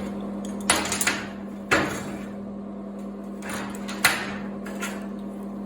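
Four sharp metal knocks and clanks at irregular intervals as the freshly welded disc-harrow piece is handled between welds, over a steady hum.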